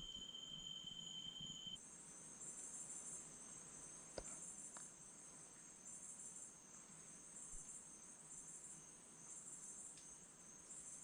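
Faint night insects such as crickets, shrilling steadily at a high pitch, with a higher pulsing chirp about once a second.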